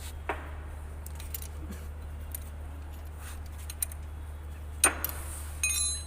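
Metal clinks and clicks of hand tools and loose bolts being handled during engine disassembly. A sharp clink comes just before five seconds in, and a brief metallic ring follows near the end.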